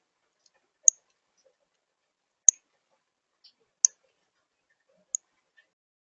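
A small songbird's sharp, high-pitched chip calls, four of them about a second and a half apart.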